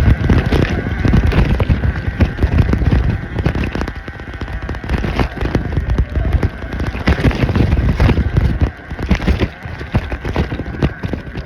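Surron Ultra Bee electric dirt bike ridden over rough single track: a dense, irregular clatter of knocks and rattles over a low rumble from the bike and a chest-mounted camera bouncing, with a faint steady high whine from the electric motor.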